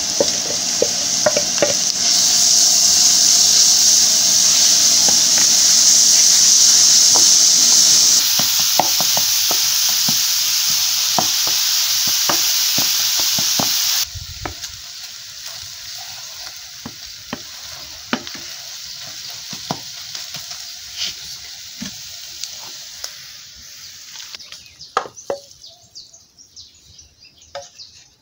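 Grated carrots, onion and green pepper sizzling in hot oil in an aluminium pan, with a wooden spoon stirring and knocking against the pan. The sizzle is loud at first, drops sharply twice, about a third and about halfway through, then goes on quieter with scattered spoon taps and fades near the end.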